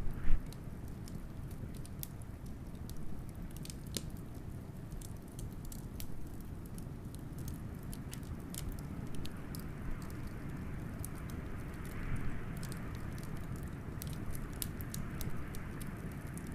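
Wood fire crackling with frequent sharp pops, one loud pop just after the start, over a steady low rumble of blizzard wind that swells into a hissing gust around the middle.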